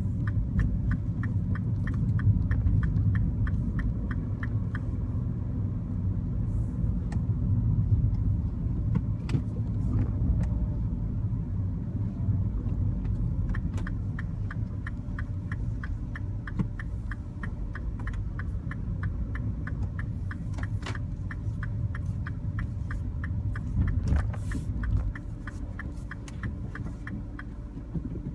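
MINI Cooper heard from inside the cabin: steady engine and road rumble as the car drives, with a turn-signal indicator clicking at about two a second for the first few seconds and again for several seconds midway. Near the end the rumble quietens.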